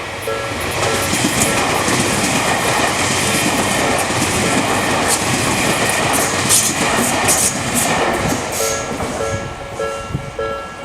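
A train running past a Japanese level crossing, with wheels clacking over rail joints, while the crossing's slow Nikko-line type bell rings about two strokes a second. The train's noise drowns the bell for most of the time, and the bell comes through clearly again near the end.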